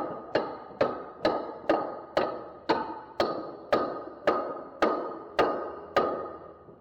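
A steady series of sharp taps, about two a second and slowing slightly, each with a brief ringing tone.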